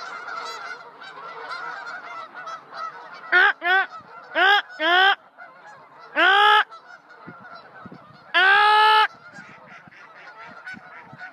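A large flock of waterfowl calling together: a steady din of many overlapping calls, with loud honks rising out of it, several single and paired ones from about three seconds in and one longer honk a little past the middle.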